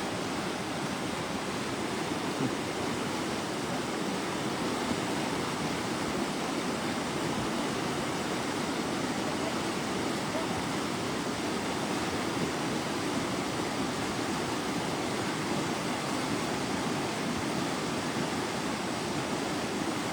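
River in spate with torrential floodwater after heavy thunderstorms, rushing with a steady, even noise.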